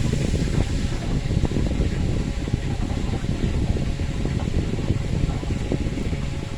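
Chicken pieces frying in hot oil, crackling steadily as the water cooks out of them, over the steady noise of an electric fan.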